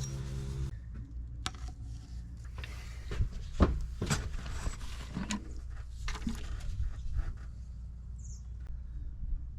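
Scattered knocks and clicks from handling a plastic fluid bottle and tools while refilling the transmission with fluid, over a steady low hum. The loudest knocks fall around the middle.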